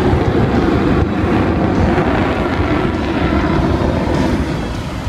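Loud, steady jet noise from an F-22 Raptor's twin turbofan engines as it flies its display, easing off slightly near the end.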